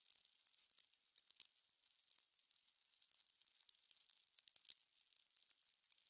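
Fire crackling: irregular sharp pops and crackles, several a second, over a faint steady hiss.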